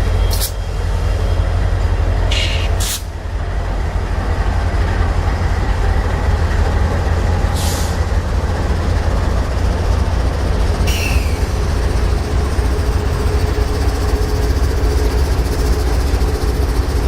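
A train running by with a steady heavy rumble, broken by a few short, sharp high-pitched noises.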